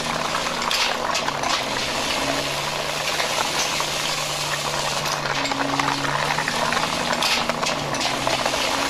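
Large plastic toy backhoe pushed by hand along a hard floor: its wheels and loose plastic parts rolling and rattling, with a faint low tune beneath.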